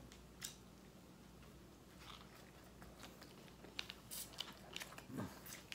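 Faint chewing and mouth sounds of someone eating, with a few soft clicks and smacks.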